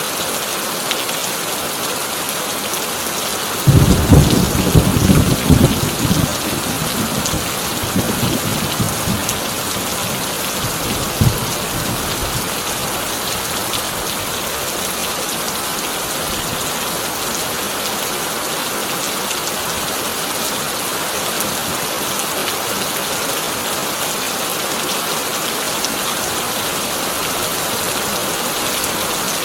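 Heavy rain drumming steadily on a tin roof. About four seconds in a sudden loud clap of thunder breaks, then rolls and rumbles for several seconds before dying away under the rain.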